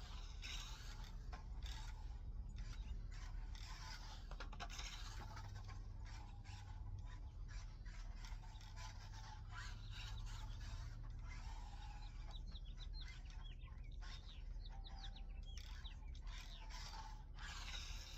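Irregular scraping and rubbing over a steady low hum, with a run of short chirps about two-thirds of the way through.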